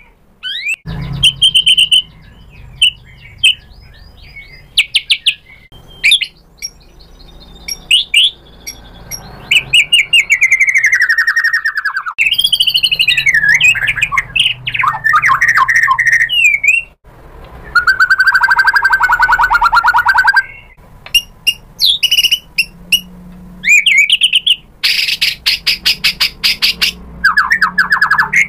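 White-rumped shama (murai batu) singing a loud, varied fighting song: rich whistled notes, downward-sliding slurs and fast trills, separated by brief pauses, with a harsh buzzy rattle near the end.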